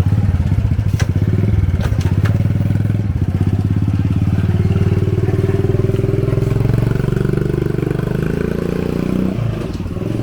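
Motorbike engine running close by, a steady low putter with a few sharp clicks about one and two seconds in, easing slightly near the end.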